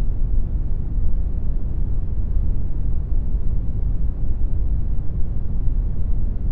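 Synthetic brown noise: a steady, loud, deep rumbling hiss with most of its energy in the bass and little in the highs.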